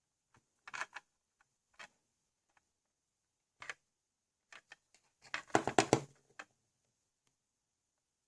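Scattered clicks and taps of hard plastic LEGO parts being handled, then a quick flurry of rapid clicks a little after halfway, the loudest part.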